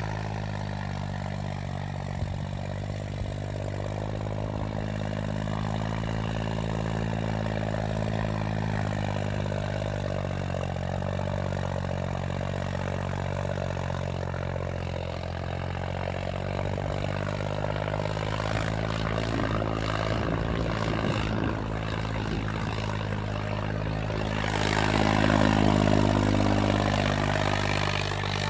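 John Deere 5310 tractor's three-cylinder diesel engine running steadily, louder for a few seconds near the end.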